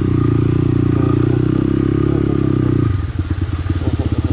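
Motorcycle engine pulling steadily, then about three seconds in it eases off to a lower, pulsing beat where the separate firing strokes can be heard.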